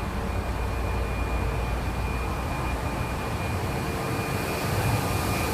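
Commuter train running noise: a steady low rumble with a constant high-pitched whine.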